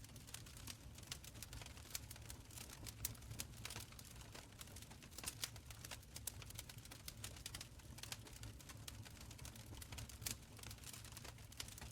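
Wood fire burning in an open stone fireplace: frequent irregular crackles and small pops, a few louder, over a soft low rumble of the flames.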